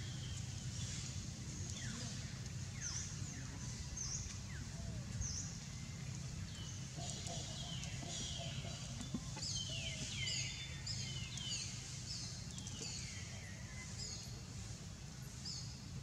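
Small birds chirping: many short, high, falling chirps and some longer downward sweeps, busiest in the second half, over a steady low background rumble.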